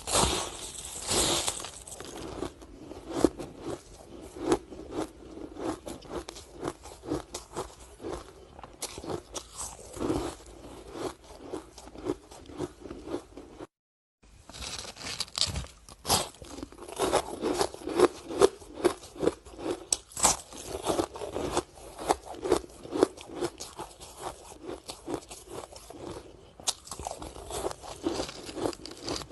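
Sticks of ice being bitten and chewed close to the microphone: dense, irregular crunching and cracking, broken by a brief silence about fourteen seconds in.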